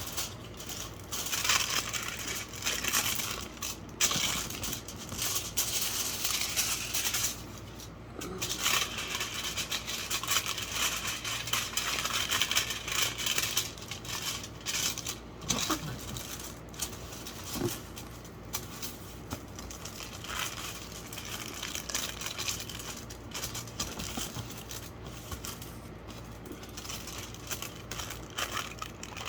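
Aluminum foil being crumpled, folded and pressed by hand, an irregular crinkling and crackling that swells and fades in bursts.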